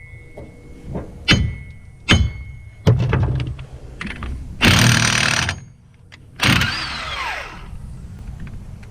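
A hammer striking a side-by-side's wheel hub, three ringing metal blows about a second apart. Two louder, longer rushing bursts follow; the second ends in a falling whine.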